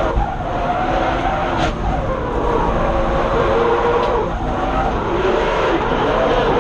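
BMW M50B25 non-VANOS 2.5-litre straight-six engine running hard through a drift, its revs dropping briefly about two seconds in and again about four seconds in before climbing back, with tyres skidding underneath.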